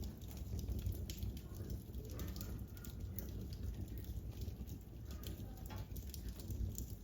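Fire in a fireplace crackling, with many quick irregular pops and snaps over a low rumble.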